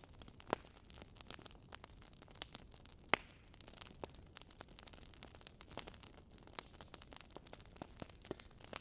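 Burning firewood crackling: irregular sharp pops and snaps over a faint hiss, the sharpest snap about three seconds in.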